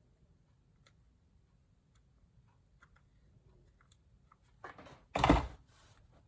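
Craft handling noises: faint scattered clicks, then a short rustle and a brief loud burst of noise near the end as the piece is pressed onto the hive.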